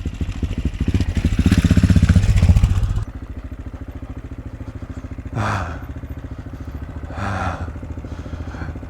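AJP PR7's single-cylinder engine pulling under throttle on a stony climb. It gets louder over the first three seconds, then drops suddenly as the throttle closes, and runs on quieter. Two short bursts of noise come about halfway through and near the end.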